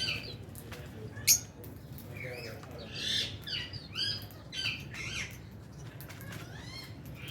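A flock of lovebirds chirping, with many short rising and falling calls, one sharp click about a second in, and a low steady hum underneath.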